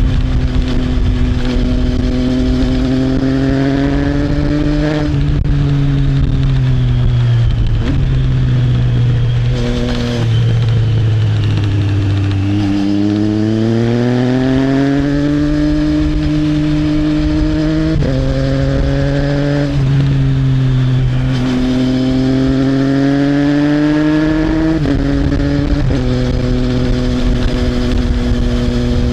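Triumph Trident 660's inline three-cylinder engine through an Arrow exhaust, on the move. The engine note rises and falls with the throttle, easing down to a low point about twelve seconds in, then climbing again. It steps abruptly in pitch at several gear changes.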